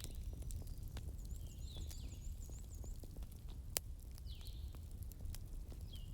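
Wood fire crackling over a steady low rumble, with scattered sharp pops, the loudest about four seconds in. Small birds chirp in the background, including a quick run of high repeated notes early on.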